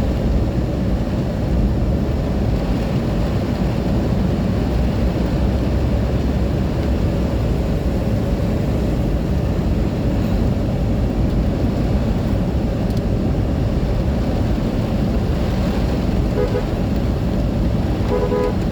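Steady low rumble of a car on the move, heard from inside the vehicle. A few short beeps come near the end.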